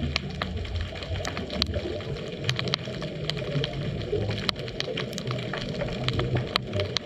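Underwater ambience picked up by a camera in its housing: a steady low rumble of moving water with many scattered sharp clicks and crackles.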